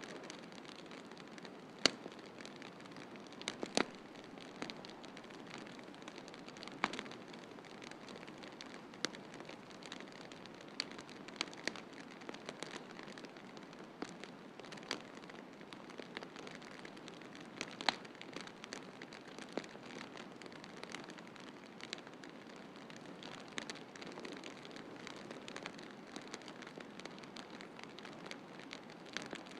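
Wood fire crackling, with irregular sharp pops (the loudest about two seconds in and again about halfway through), over a steady hiss of snowstorm wind.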